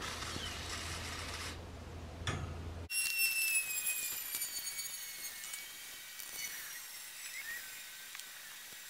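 Water spraying from a hose-end watering wand: a steady hiss. About three seconds in it cuts off abruptly and gives way to a quieter hiss with a thin, high whistle that slowly falls in pitch.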